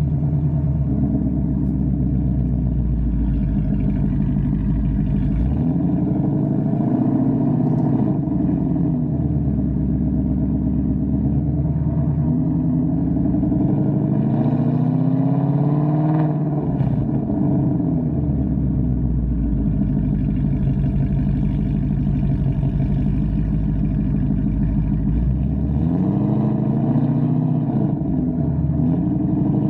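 Ford Mustang GT's 5.0-litre V8 with aftermarket headers and exhaust, driving: the engine note rises and falls several times as the car accelerates and backs off, with steadier cruising in between.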